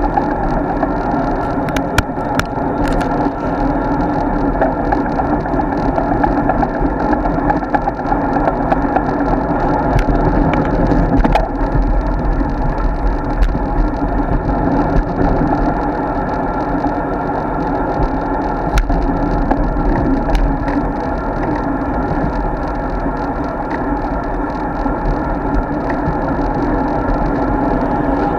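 Steady wind and road noise from a road bike being ridden, wind on the microphone, with a few sharp clicks.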